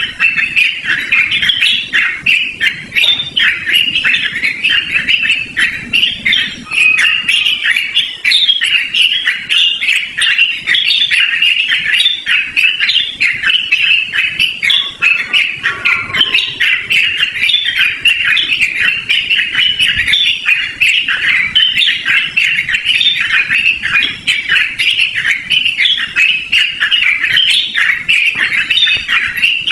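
Yellow-vented bulbul singing a long, unbroken run of rapid chattering notes.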